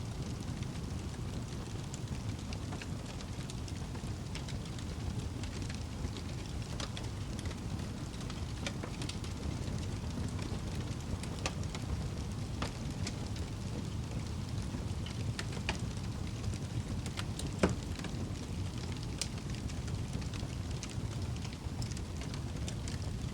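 Fire burning in a fireplace: a steady low rumble with scattered crackles and pops, one louder pop near the end.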